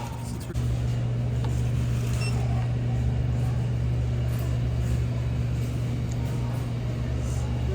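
A steady, loud, low mechanical hum that sets in about half a second in and holds unchanged.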